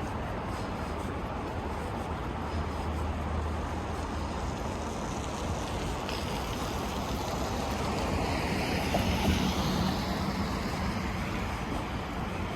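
City street traffic: cars driving past steadily, with one vehicle passing close and getting louder about eight to ten seconds in.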